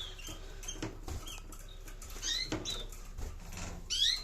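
Canaries giving short, sharp chirp calls that sweep in pitch, a few times: near the start, twice in the middle and once near the end, with faint clicks and rustling between.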